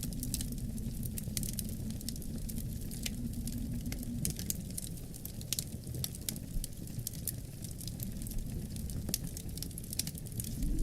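Wood fire crackling, with many irregular sharp pops and snaps, over a steady low rumble of wind.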